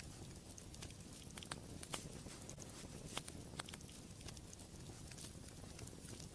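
Wood fire crackling in a fireplace: a soft, steady rumble of the flames with irregular sharp pops and snaps, the loudest about two and three seconds in.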